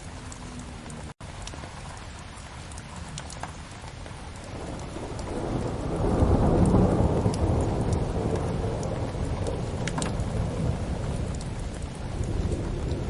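Steady rain with a low roll of thunder that swells from about four seconds in, is loudest a couple of seconds later, then slowly dies away; faint fire crackles tick over it. A split-second dropout comes about a second in.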